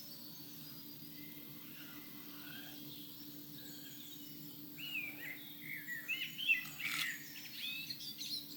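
Birds chirping, a quick string of calls in the second half, over a steady low hum.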